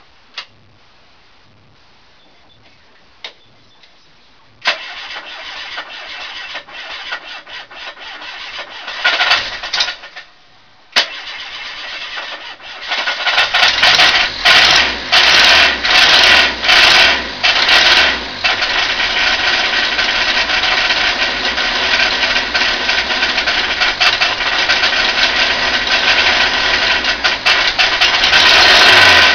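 Ford Capri's 2.0 Pinto single-overhead-cam four-cylinder engine cranked on the starter for several seconds, a pause, then cranked again until it catches about 13 seconds in. It is blipped up and down several times and then runs steadily, with a knock that the owner cannot yet place between a bottom-end failure and something knocking elsewhere.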